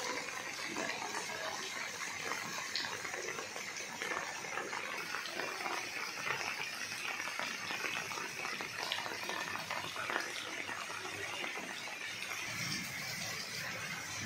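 Steady rain falling onto standing floodwater, an even noise of drops on the water surface.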